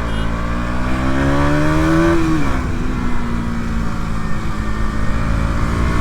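KTM Duke 200's single-cylinder engine pulling under acceleration, its pitch rising steadily, then dropping about two seconds in at a gear change and holding an even pitch as the bike cruises.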